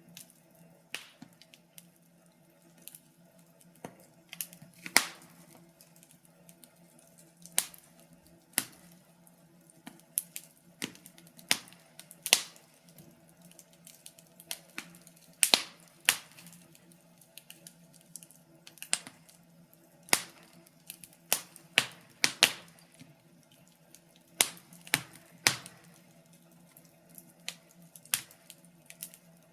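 Wood fire crackling: irregular sharp pops and snaps at uneven intervals, some louder than others, over a faint steady low hum.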